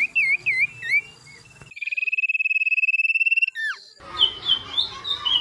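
Songbirds singing in spliced recordings: a run of quick swooping whistled notes, then suddenly a steady high trill for about two seconds, then after another sudden change a different bird's short repeated chirps near the end.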